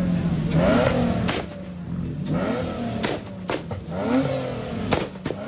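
A car engine revving up and dropping back several times, with a handful of sharp cracks between the revs.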